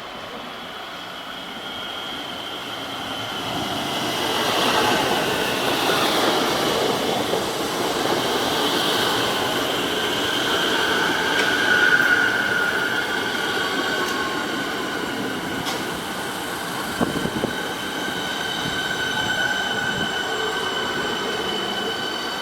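Electric suburban Metro train running past on the rails, growing louder over the first few seconds, with a steady high-pitched wheel squeal over the rumble.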